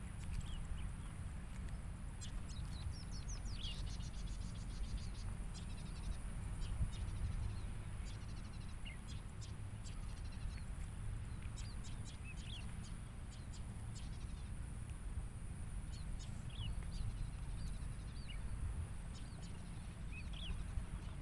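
Lakeside nature ambience: many short, scattered bird chirps and calls over a steady low rumble and a constant high-pitched hiss.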